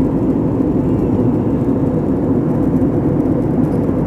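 Steady low drone of an airliner in flight heard from inside the cabin: engine and airflow noise, even and unbroken.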